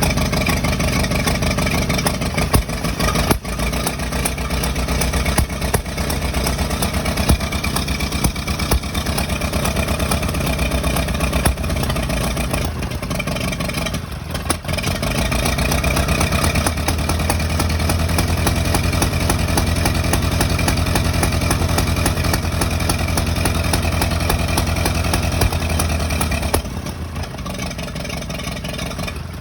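An engine running continuously with an uneven beat and occasional irregular spikes, the kind of sound the owner questions as a possible misfire. It gets louder and fuller about halfway through, then drops back shortly before the end.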